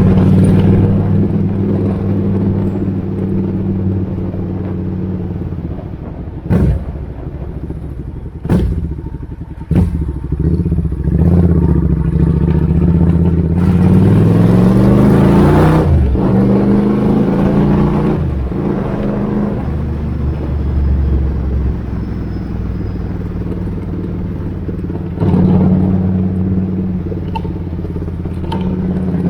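Suzuki Intruder 800 V-twin motorcycle engine idling, with a few sharp cracks in the first ten seconds. Around the middle it is revved, the pitch climbing steadily and then dropping back to idle.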